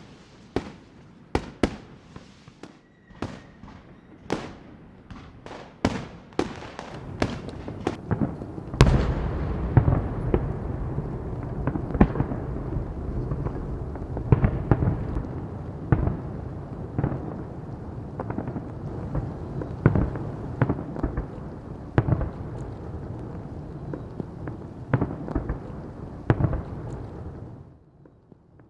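Fireworks display: separate sharp bangs a few times a second at first, then from about nine seconds in a dense, continuous barrage of bangs and crackling with a deep rumble, which dies away near the end.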